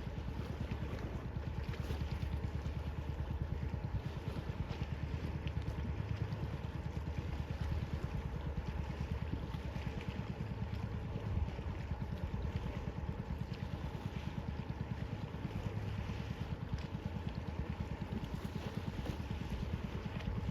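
A boat's engine running steadily: an even drone with a fast regular pulse, under a wash of water and wind noise.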